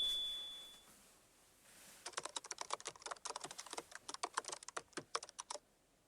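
A high ding fades out over the first second, then rapid keyboard typing clicks run for about three and a half seconds.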